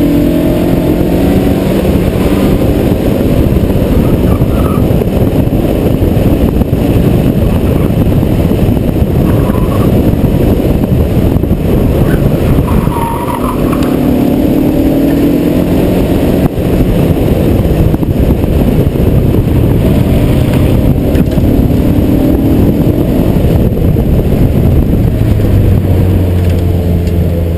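Mazda Miata's four-cylinder engine revving up and falling back again and again as the car is driven hard around an autocross course, with a constant rush of wind over the outside microphone.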